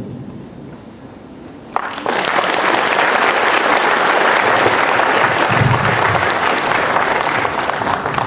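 The song's last notes die away, then an audience breaks into applause about two seconds in, steady clapping that continues to the end.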